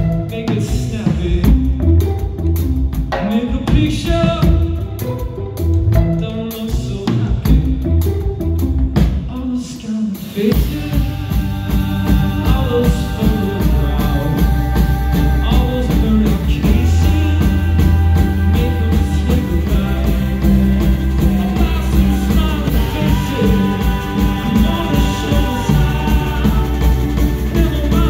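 A live band playing a rock song in concert. The first ten seconds are sparser, then the full band comes in with a denser sound and long held notes.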